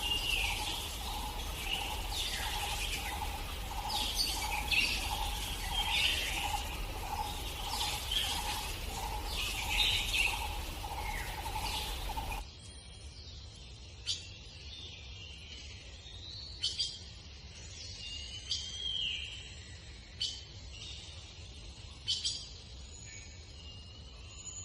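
Egrets calling in a colony: many harsh calls overlapping over a steady pulsing hum. About halfway in the sound changes abruptly; the hum stops and only scattered, sharper calls remain.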